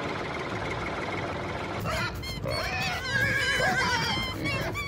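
Tractor engine running for about the first two seconds, then a horse whinnying, its call wavering up and down.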